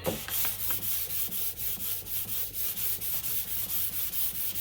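Hand sanding with 400-grit sandpaper over spot putty on a car body panel: a back-and-forth rasping rub at about three strokes a second. This is the stage that takes out the 220-grit scratches and feathers the putty into the metal and paint.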